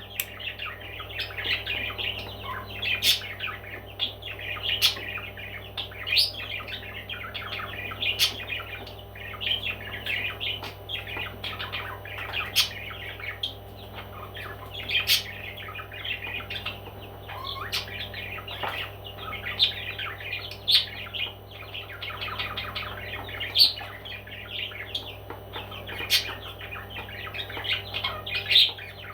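Pet parrots chattering and chirping without pause, with a sharp loud call breaking through every second or few, over a steady low hum.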